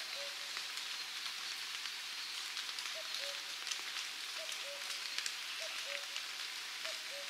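A bird repeating a short two-note call, the second note lower, about every second or so, over a steady hiss with faint ticks.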